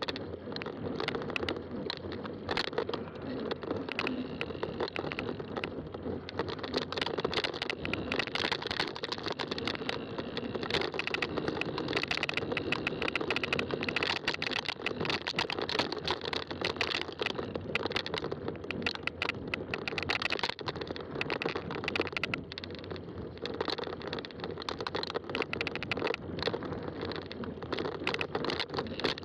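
Fat-tire bike rolling along a trail, its tyres making a continuous noise packed with crackling and rattling clicks.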